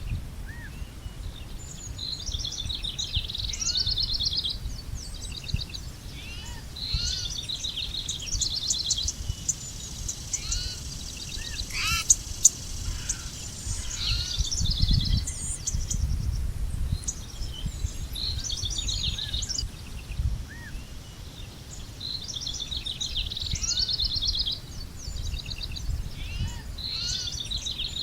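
Songbirds singing outdoors: short, fast trilled and chirping phrases repeated every few seconds, with fainter single call notes between them. A steady low rumble runs underneath, and there is a sharp click about twelve seconds in.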